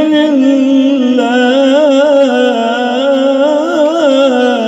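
A man's voice reciting the Quran in tilawat style, drawing out one long melodic note that wavers up and down in ornamented turns and breaks off near the end.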